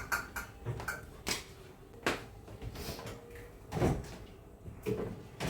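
A handful of separate knocks and clatters of things being handled and set down while cleaning a kitchen, the loudest a little under four seconds in.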